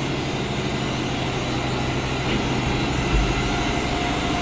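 Steady drone of running machinery in a ship's engine spaces, with a constant low hum and a brief low thump about three seconds in.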